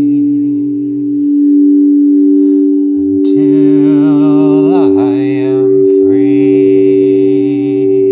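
Singing bowls ringing on, two steady overlapping tones held throughout. A lower drone sounds beneath them, breaking off a little after a second in, returning about three seconds in with a wavering pitch, and breaking again briefly near six seconds.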